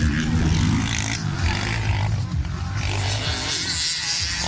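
Racing motorcycle engines running, with rising and falling pitch as the bikes rev.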